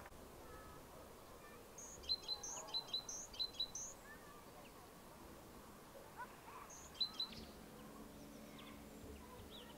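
Small songbird chirping: a quick run of high, sharp chirps about two seconds in and a shorter burst around seven seconds, over quiet outdoor background.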